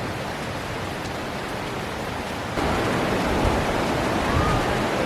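Rushing water of a waterfall, a steady even hiss that grows louder about two and a half seconds in.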